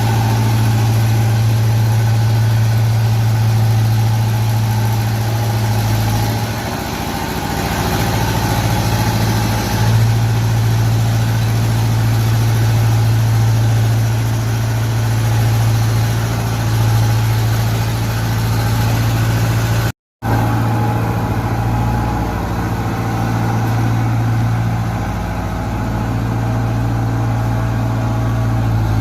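Renault tractor's diesel engine running steadily with a low, even drone while feeding cattle with a feed wagon. It eases off briefly about seven seconds in, and the sound drops out for a split second about twenty seconds in.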